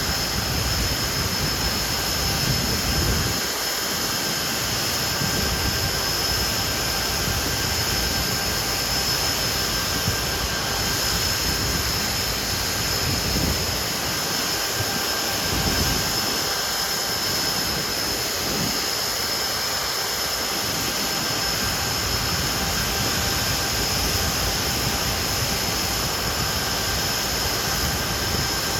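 Hawker Siddeley Nimrod's Rolls-Royce Spey turbofans running steadily: a continuous jet roar with a constant high turbine whine over it.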